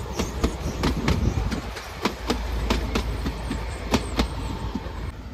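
Narrow-gauge passenger train coaches rolling slowly past at close range: a low rumble of the running gear with irregular sharp clicks as the wheels pass over rail joints.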